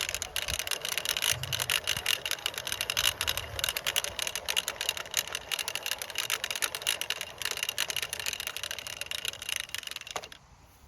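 A geared hand-cranked fence reel being wound in: a fast, continuous clicking of its ratchet and gears that stops suddenly near the end.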